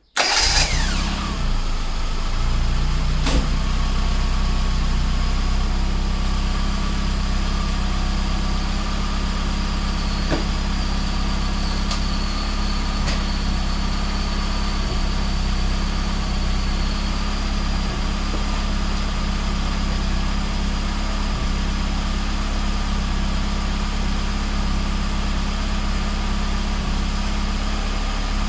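Classic Mini's new engine catching on its first start. The pitch shifts in the first couple of seconds, then the engine settles into a steady idle, not yet set up for timing or mixture. A few faint clicks sound over the running engine.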